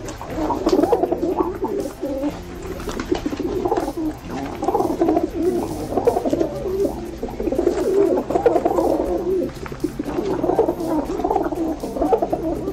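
Birds calling, many low calls overlapping continuously.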